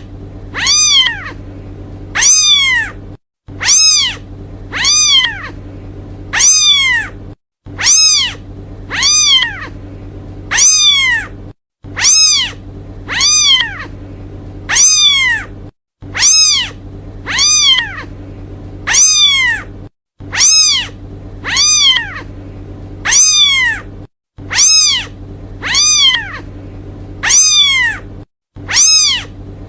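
Kitten meowing for its mother: high, short calls that rise and fall in pitch, about three every four seconds, the same few calls repeated over and over as a loop. A steady low hum runs underneath.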